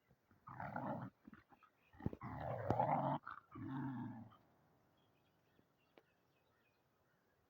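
A dog giving three low, drawn-out growls in the first half, the middle one the longest and loudest.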